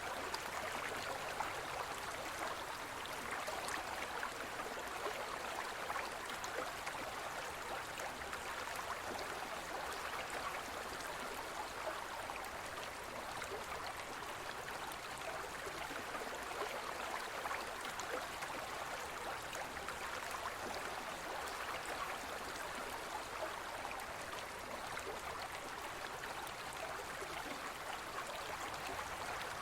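Forest stream flowing steadily over rocks: an even rush of water with fine splashing and gurgling.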